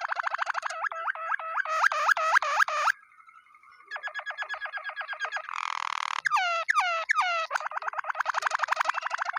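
Waterslager canary singing: fast rolling trills of rapidly repeated notes, broken by a short pause about three seconds in, then a bubbling passage and a few slower notes that sweep downward before the rapid rolling trill resumes.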